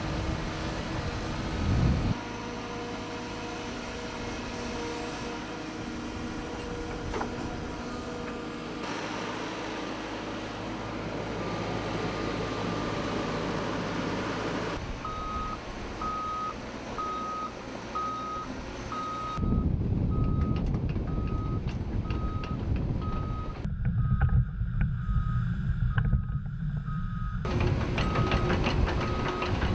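Cat 311F L RR hydraulic excavator's diesel engine running under work, its sound changing abruptly several times. From about halfway a backup alarm beeps steadily a little faster than once a second, over louder, rougher machine noise in the last third.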